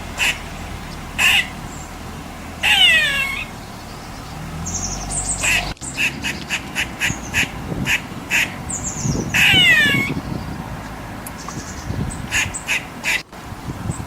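Squirrel alarm calls: a run of short, sharp barking chirps, broken twice by a longer, harsher call that falls in pitch.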